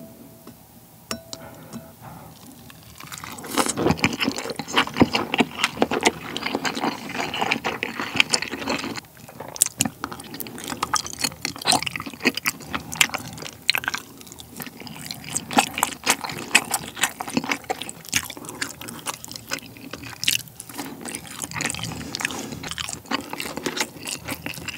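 Close-miked chewing of a sheet of broth-soaked fish cake (eomuk), a dense stream of small wet mouth clicks that starts about three seconds in after a quieter opening.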